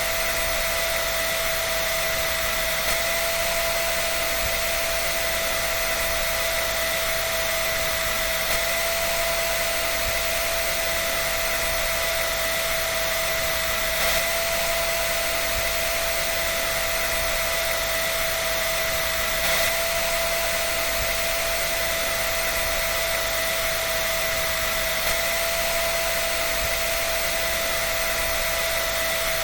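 A dryer running continuously: an even rushing hiss with a constant whine, steady in pitch and level.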